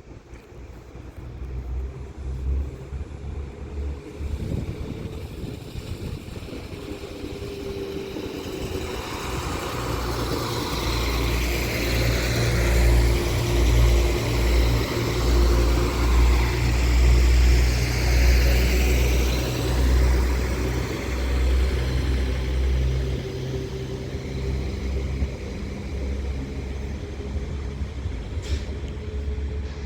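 Northern Class 195 diesel multiple unit pulling out of the station, its underfloor diesel engines running under power as it accelerates away. The engine drone and wheel noise build to their loudest about halfway through, then ease off as the train draws away.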